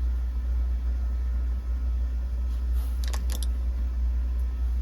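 Steady low rumble, with a few light clicks about three seconds in as small screws and engine parts are handled.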